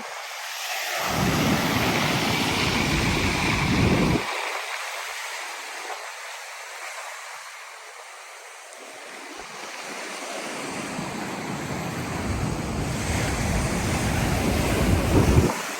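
Black Sea surf: two waves build and wash in, one in the first few seconds and a longer one near the end, with wind rumbling on the microphone as each peaks.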